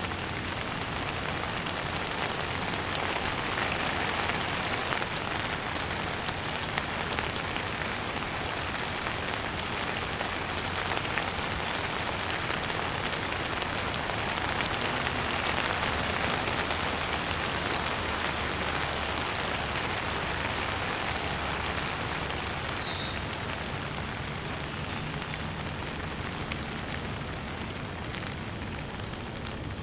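Steady rain falling and pattering on surfaces, an even dense hiss of many small drops. A single short bird chirp sounds about three-quarters of the way through.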